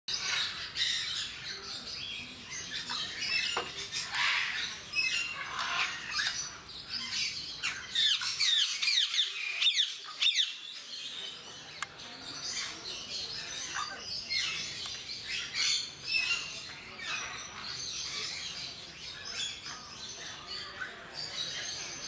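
Birds calling: a busy, continuous mix of short chirps, whistles and squawks, with a run of quick rising and falling whistles around the middle.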